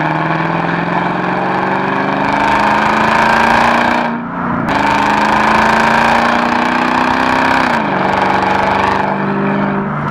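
Supercharged 5.5-litre V8 of a decatted Mercedes E55 AMG with an X-pipe exhaust, accelerating hard. The engine note climbs steadily, falls back briefly at an upshift about four seconds in and again near eight seconds, then climbs once more.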